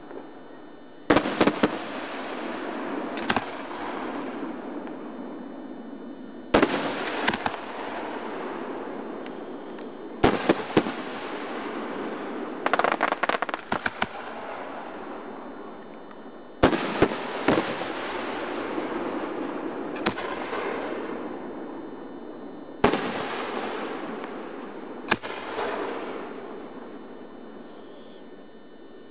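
Aerial fireworks shells bursting: sharp bangs every few seconds, often in pairs, each followed by a long rolling echo. About halfway through there is a quick run of crackling reports.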